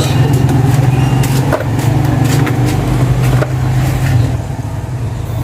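BMW R nineT's 1170 cc air/oil-cooled boxer twin idling steadily, easing slightly about four seconds in, with a few sharp clicks over it.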